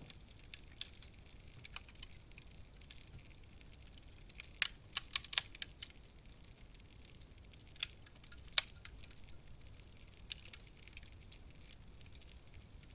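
Wood fire crackling in a fireplace: sharp snaps and pops over a soft low hiss, with a quick run of loud pops about five seconds in and two more single loud pops a few seconds later.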